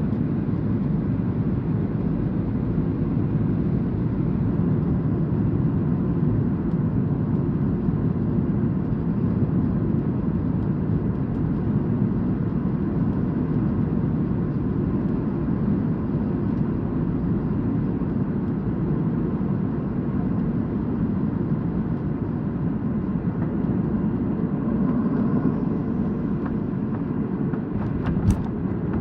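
Boeing 737-800 jet engines running at a steady low rumble, with a couple of sharp clicks near the end.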